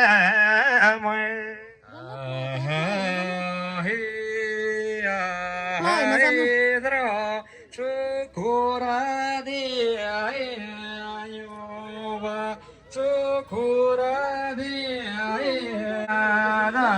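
A man chanting a Gurung funeral-rite recitation in long, held notes on nearly one pitch, with short rising and falling turns between phrases, carried over a loudspeaker system.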